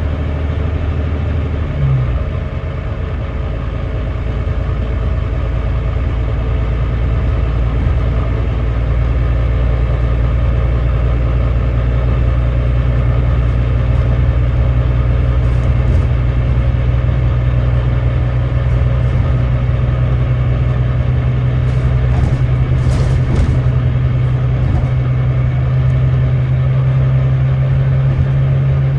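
Volvo D9B 9.3-litre diesel engine of a Volvo B9TL double-decker bus running under load, heard on board. Its note changes briefly about two seconds in, then holds steady and slowly builds. The uploader labels this engine as misfiring.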